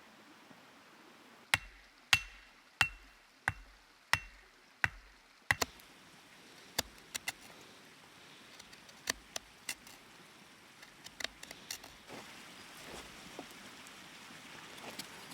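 About seven sharp blows at a steady pace of roughly one and a half a second, each with a dull thud, like a tool driven against wood. They are followed by scattered lighter knocks and clicks.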